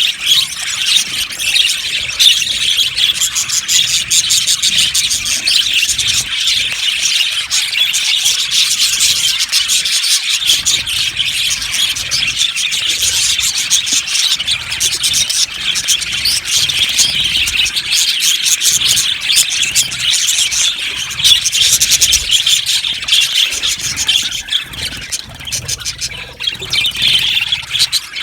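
Many budgerigars chattering and chirping together in an aviary, a continuous dense mix of overlapping warbles, chirps and squawks.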